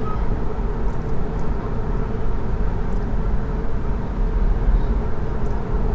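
Steady road and tyre rumble inside the cabin of a 2019 Chevy Bolt electric car driving on a highway while towing a trailer.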